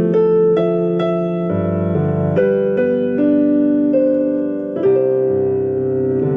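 Piano or electric piano music: slow sustained notes, one melody note at a time over held lower notes.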